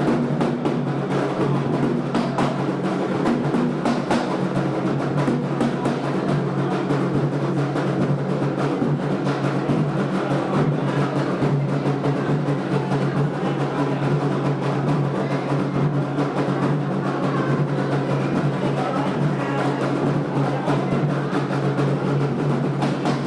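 Candomblé atabaque hand drums playing a dense, continuous rhythm without a break.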